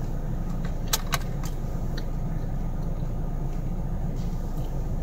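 Steady low rumble of a car's engine idling, heard from inside the cabin, with a few light clicks about a second in.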